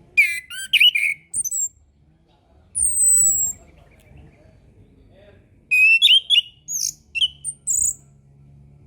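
Orange-headed thrush singing: a quick burst of varied notes, then a single high whistle sliding down about three seconds in, then another fast run of varied notes near the end.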